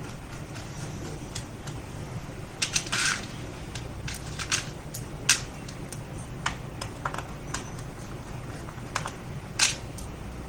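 Scattered small clicks and taps of hands handling laptop parts and drives, irregular and sharp, over a steady low hum.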